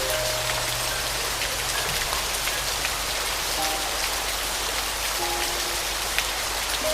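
Steady rain with many individual drops ticking, and a few soft, sustained piano notes faintly underneath.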